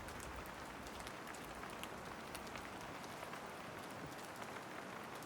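Light rain falling: a steady soft hiss with many scattered sharp ticks of single drops.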